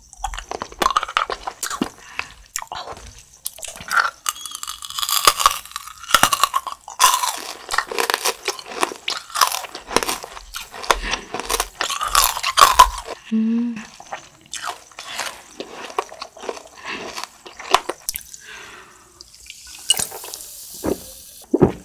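Close-miked crunching and chewing of hard blue sour candies with gum centres: many sharp crunches with wet chewing between them. Near the end comes a sip from a soda can, with a fizzy hiss.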